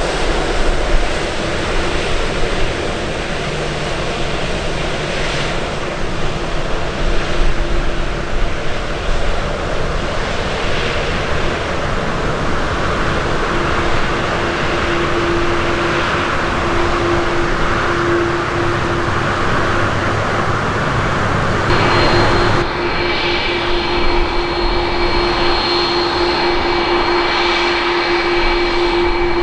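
Jet airliner engines running: a dense roar with a steady hum. About three-quarters of the way through the sound changes suddenly and two high, steady whines come in.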